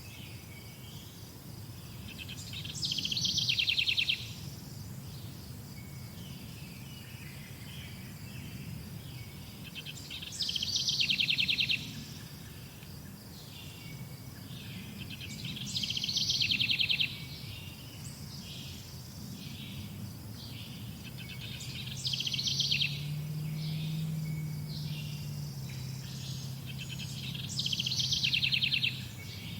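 A songbird repeating a short, rapid trilled phrase five times, about every six seconds, with softer chirps between the phrases and a low steady hum underneath.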